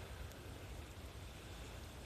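Faint, steady hiss of sea surf washing on the shore, with a low rumble of wind on the microphone.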